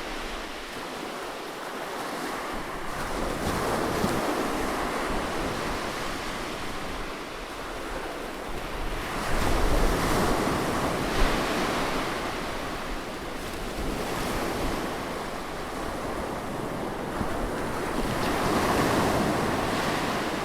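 Ocean waves breaking and washing up a beach, the surf swelling and ebbing every few seconds, with wind buffeting the microphone.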